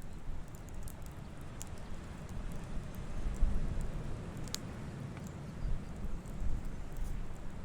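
Campfire burning: wood crackling with scattered sharp pops, the loudest about four and a half seconds in, over a steady low rumble.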